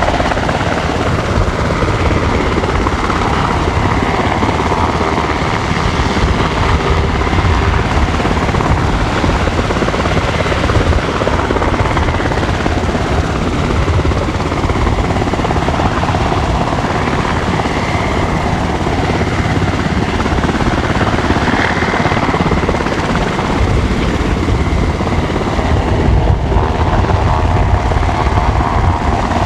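SH-60K Seahawk helicopter running close by: the heavy rumble of its rotors with the high whine of its twin turboshaft engines. The whine drifts slowly up and down in pitch as it manoeuvres.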